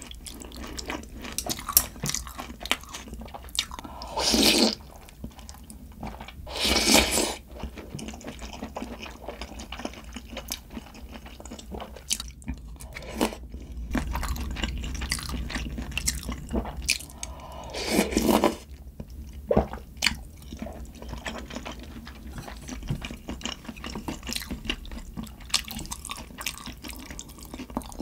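Close-miked eating sounds: chewing and crunching with many small wet clicks, and three longer, louder slurps about 4, 7 and 18 seconds in, as of noodles or broth being drawn in.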